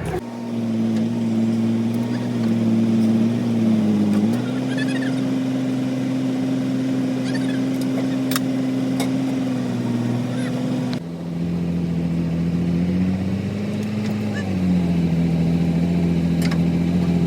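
A machine running with a steady pitched hum, its pitch dipping and recovering a few times, with a few faint clicks.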